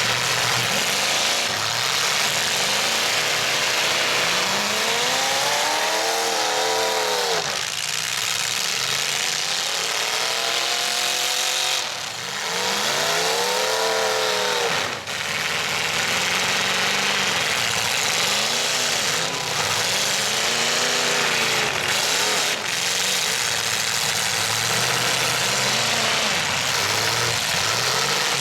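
Demolition derby truck engines revving up and easing off again and again over a dense, steady din. The longest, loudest revs come about a fifth of the way in and again about halfway through.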